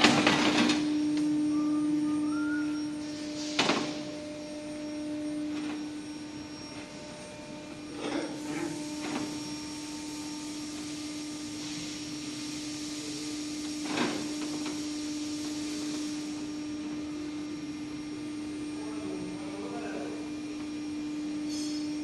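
A steady machine hum with a few sharp knocks and clatters, the loudest right at the start and another single knock in the middle, and a few seconds of hissing in between.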